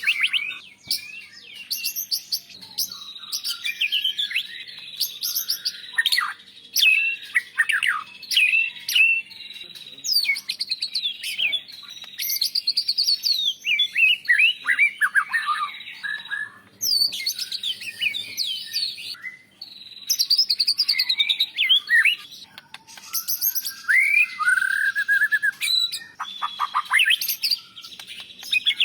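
White-rumped shama singing a loud, varied song of clear whistles, rapid trills and sweeping notes, delivered in phrases with short pauses between them.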